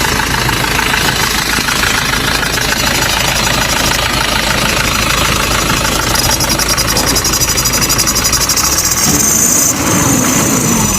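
Car engine idling, with a repeating squeak from the accessory drive belt at the front of the engine, which the owner likens to the fan belt. It is typical of a belt slipping on a pulley or tensioner.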